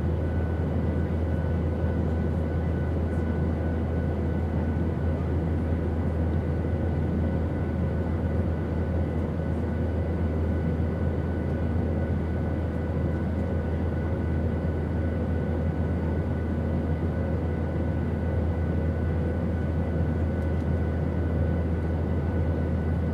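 Steady airplane drone: a deep, even rumble with a hiss above it and a few faint steady tones, unchanging throughout.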